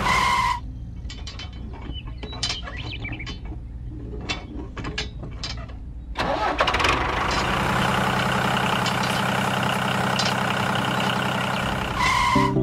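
Mechanical clicking and rattling for about five seconds, then an engine starts and runs steadily.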